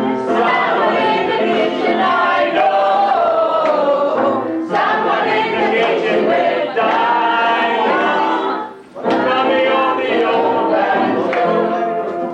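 A group of voices singing a song together, a singalong chorus; the singing breaks off briefly about nine seconds in.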